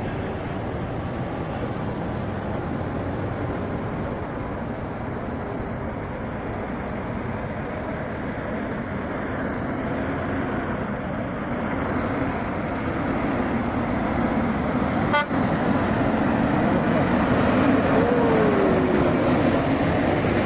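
Heavy truck engine running under load, getting louder over the second half, with a single sharp click about fifteen seconds in and a brief falling whine near the end.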